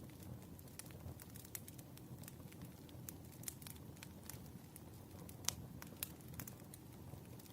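Wood fire crackling: irregular sharp pops and snaps over a low steady rumble of the flames, with one louder pop about five and a half seconds in.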